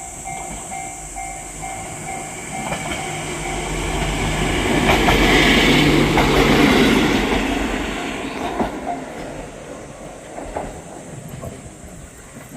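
Small single-car train passing below, growing louder to a peak about halfway through and then fading away, with a few wheel clacks over rail joints as it goes. A pulsing tone sounds for the first few seconds and then stops.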